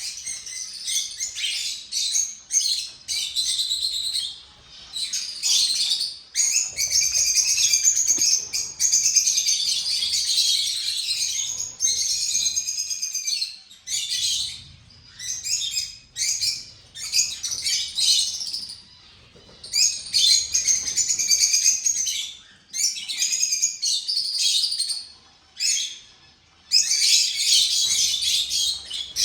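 Many small cage birds chirping and calling over one another, high-pitched and almost continuous, with short breaks.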